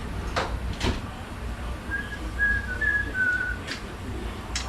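A person whistling a few short notes of slightly varying pitch, with several sharp clicks and clinks of parts being handled around them. A steady low hum runs underneath.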